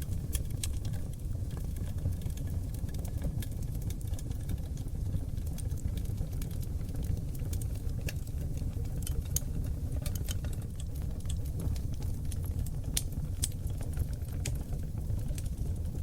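Wood fire of oak logs burning in a fireplace: a steady low rumble of flames with frequent scattered crackles and sharp pops.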